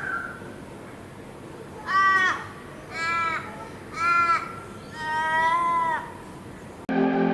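A crow cawing four times at roughly one-second intervals, the last call drawn out and falling at its end. Music starts abruptly near the end.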